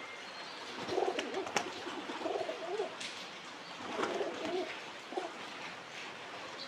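Pigeons cooing: two bouts of low, throaty calls, with a few sharp clicks in between.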